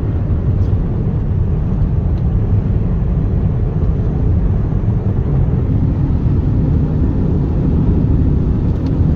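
Steady low rumble of road and wind noise inside a moving car driving through a dust storm.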